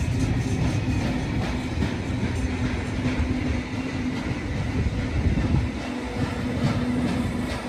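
A train running past: a steady low rumble with a held hum, and the wheels clicking over the track.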